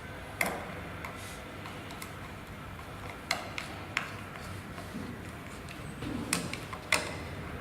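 A handful of sharp, scattered clicks and light knocks as metal parts and tools are handled during reassembly of a deep-well submersible pump. There are about five of them, a second or more apart.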